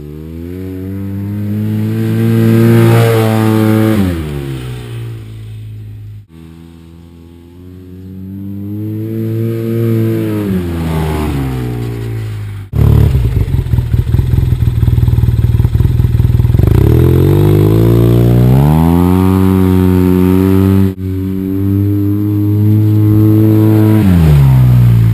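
Arctic Cat Wildcat Trail side-by-side's engine and exhaust being revved up and let fall back, several times over a few short cuts. A loud, steady, fluttering run starts about halfway through, then the revs climb again and drop near the end.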